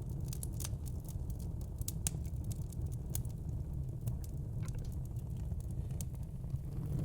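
Wood fire in a fire pit crackling, with irregular sharp pops and snaps over a steady low rumble.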